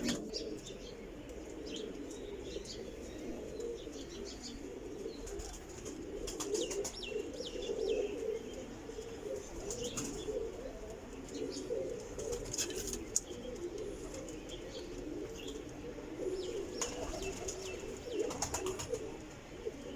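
Pigeons cooing continuously, a steady wavering murmur, with scattered short high chirps and now and then a brief flutter of wings.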